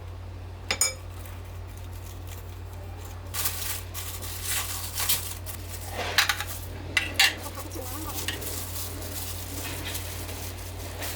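Dishes and utensils clinking and clattering in short irregular bursts of kitchen handling, over a low steady hum.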